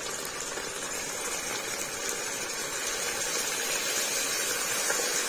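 Raw chicken pieces sizzling in hot oil with fried onions in an open pressure cooker: a steady hiss that slowly grows louder.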